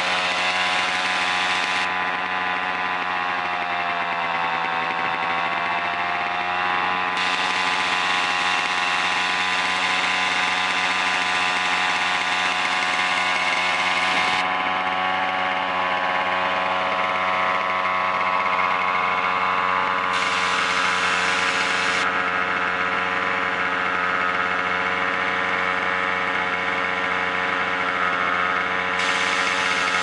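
1965 Sachs 47cc single-cylinder stationary engine running steadily, its speed sagging briefly about four seconds in and then picking back up. The owner says the engine isn't running properly.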